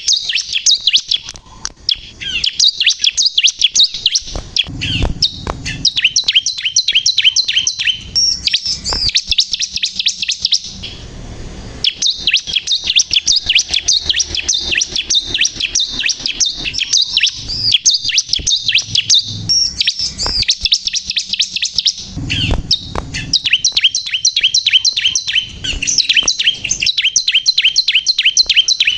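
Bar-winged prinia singing continuously: long runs of rapid, evenly repeated high chirping notes, broken by brief pauses about 11 and 21 seconds in.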